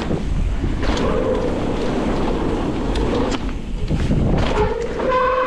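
Mountain bike descending a dirt trail at speed: wind buffeting the microphone, tyres rumbling over the ground and several sharp knocks from the bike hitting bumps and a jump. Near the end the disc brakes squeal with a steady high tone.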